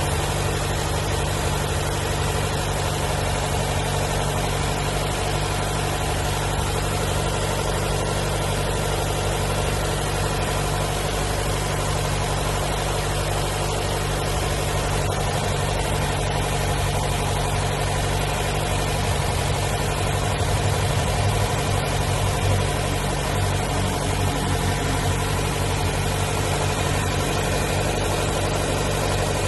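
Nissan car engine idling steadily under an open hood, holding a high idle that the owner puts at around 2000 rpm after a throttle body replacement.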